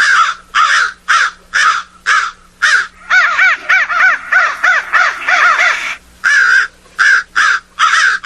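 Crow cawing: harsh caws repeated about twice a second, with a faster run of overlapping caws in the middle.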